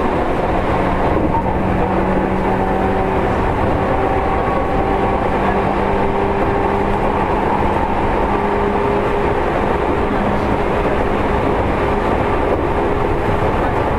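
Seibu 2000 series electric train running, heard from inside the car: a steady rumble of wheels and running gear on the rails with faint steady humming tones over it.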